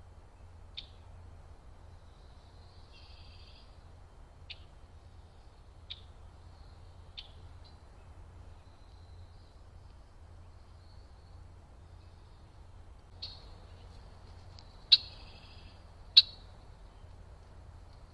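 Small birds giving short, sharp chip calls at irregular intervals, with a brief buzzy chatter about three seconds in. The two loudest chips come near the end, over a steady low hum.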